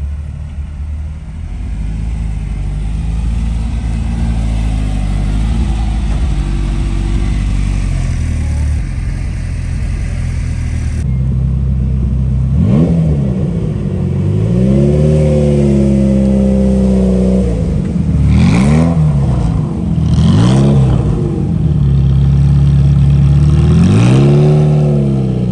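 A car engine idling, then revved repeatedly from about halfway through: around five revs, some quick blips and some held for a second or two before dropping back to idle.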